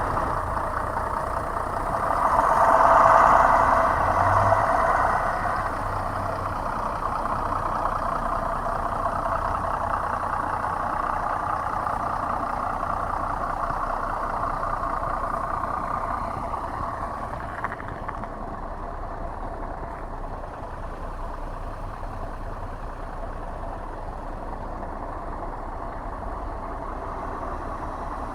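Road traffic noise: a steady vehicle hum that swells as a vehicle passes about two to six seconds in, then eases off a little past the halfway point.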